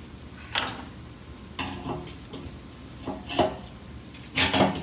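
Light metallic clinks and taps from working the fuel sending unit and its screws loose on a VW Beetle's metal fuel tank. They come scattered, then a quick cluster of louder clinks near the end.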